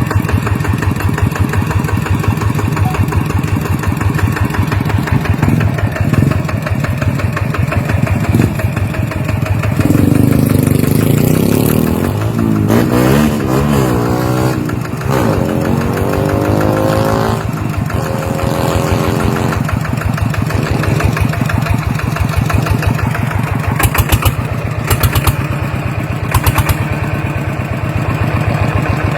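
Golden Bo 110 walking-tractor engine, a single-cylinder diesel, running with a steady rapid chug. Roughly a third of the way in it is revved up and down several times, then settles back to a steady run, with a few sharp clicks near the end.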